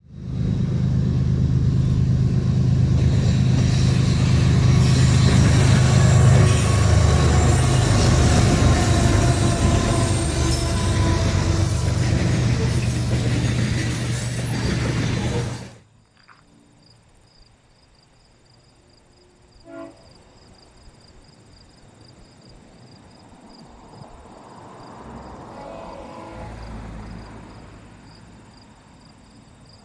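A diesel-hauled train passing at close range, a loud, steady, heavy rumble that cuts off abruptly about halfway through. After it, crickets chirp steadily over a quiet background, with a faint swell of rumble near the end.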